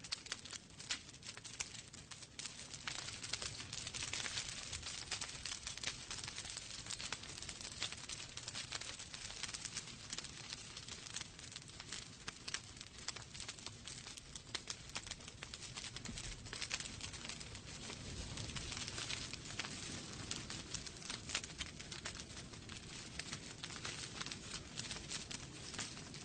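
Wood fire burning in a fireplace, the logs crackling with many quick, sharp snaps and pops over a steady hiss.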